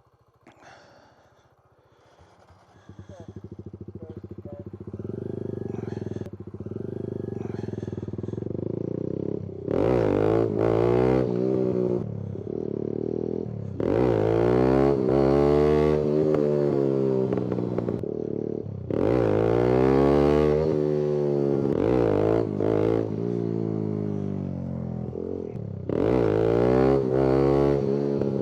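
Kawasaki Z125 Pro's small single-cylinder engine being revved hard in low gear for wheelies, the revs climbing and falling away four times as the bike passes, after a quiet first few seconds.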